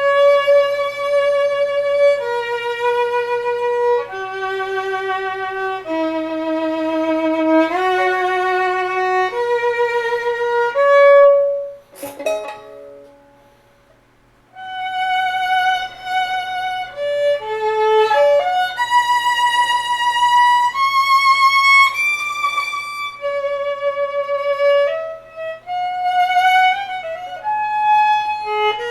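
Solo violin playing a slow melody of held notes with vibrato. The playing stops after a sharp click about twelve seconds in and starts again a couple of seconds later.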